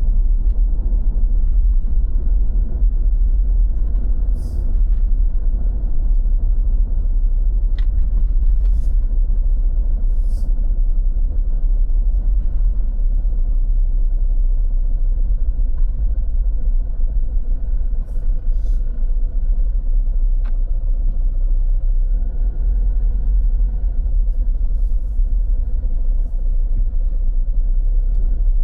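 A steady, loud low rumble, with a few brief high hisses scattered through it.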